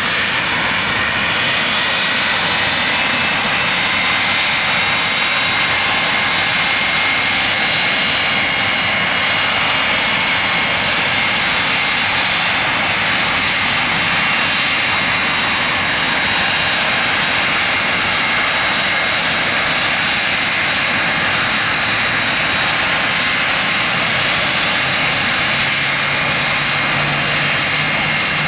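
Rolls-Royce Spey turbofan engines of a Nimrod running steadily on the ground: a loud, constant jet noise with several high whining tones that climb slightly over the first few seconds and then hold steady.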